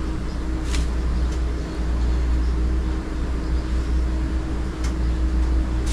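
Steady low machine drone with a faint constant hum, broken by a couple of faint clicks.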